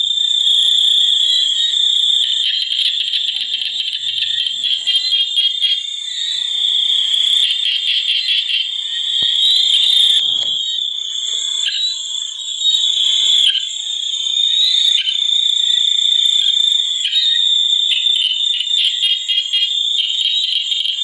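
A dense chorus of calling creatures: a steady, high-pitched trilling made of rapid pulses that swell and ease throughout.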